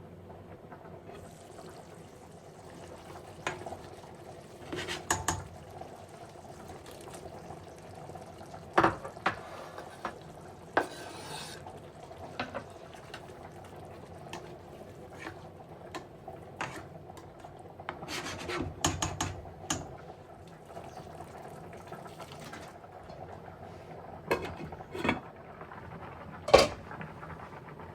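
Kitchen work: scattered clinks and knocks of utensils against pots and dishes, with stretches of rubbing and scraping, over a steady hum.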